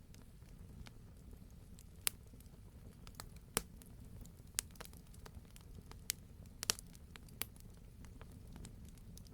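Wood fire in a fireplace crackling, with irregular sharp pops every second or so over a low steady rumble of the burning.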